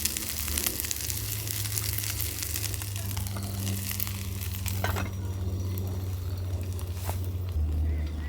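Food sizzling and crackling as it fries in a pan, thinning out about five seconds in, over a steady low hum.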